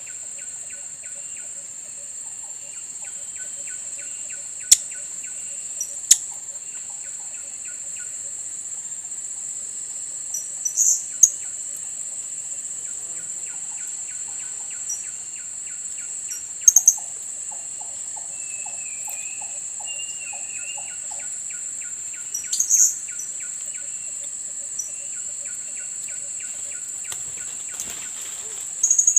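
Steady high-pitched insect drone, with about six short, sharp, very high calls of blue-crowned hanging parrots (serindit) breaking in, some as quick doubles, at the lure cage.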